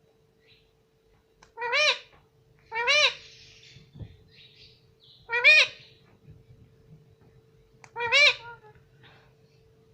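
Pet parrot calling four times, each a short high call that rises and falls in pitch, with a faint steady hum underneath.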